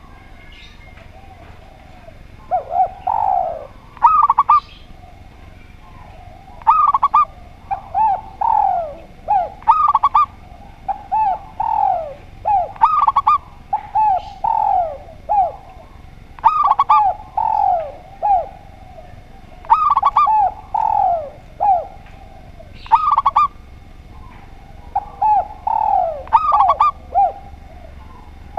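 Spotted dove and zebra dove cooing, phrase after phrase of short coo notes, many of them falling in pitch, with brief pauses between phrases.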